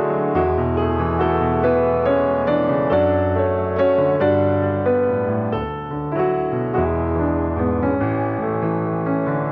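Piano music: a melody of struck notes, a few a second, over held low bass notes.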